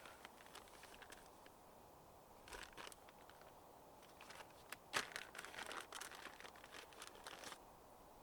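Faint, scattered crackling and rustling, with a sharper snap about five seconds in.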